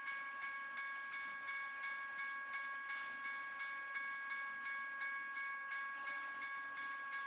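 Electronic grade-crossing bell ringing in a steady rhythm of about three dings a second, a bright chime of a few fixed tones. It is the warning that the crossing is active, with the gates down for an approaching train.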